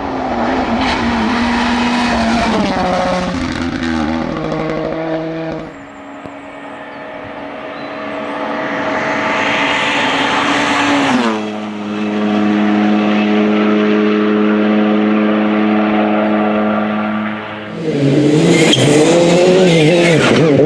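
Rally cars at full throttle on a stage, in several clips. One engine's pitch drops in steps early on. A car approaches loudly and its note drops sharply as it passes about halfway through, followed by a steady held engine note. Near the end the revs rise and fall, with some tyre noise.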